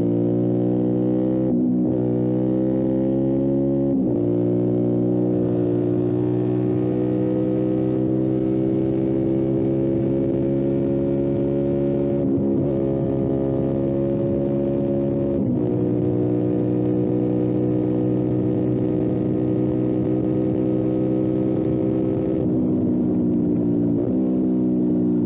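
Motorcycle engine running under load on the road, its steady drone climbing slowly in pitch, broken by a few brief dips and sweeps as the revs change, as at gear changes or when the throttle is eased.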